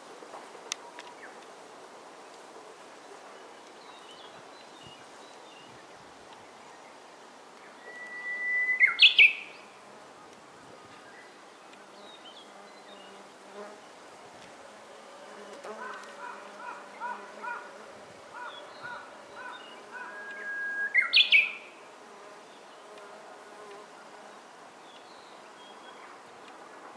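A bird singing outdoors twice, each song a long held whistle that breaks into a quick rising flourish. Softer repeated calls come in between.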